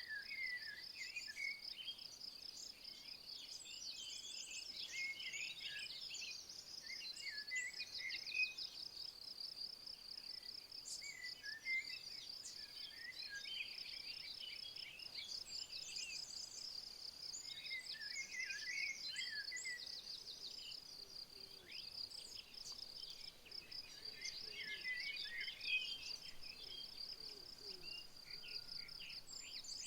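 An insect, probably a cricket or bush-cricket, chirps in a continuous fast high-pitched trill. Small songbirds sing short, bright phrases over it, coming back every few seconds with brief pauses between.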